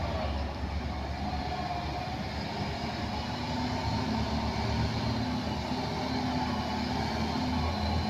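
Heavy truck's diesel engine running steadily, a low rumble with a steady hum.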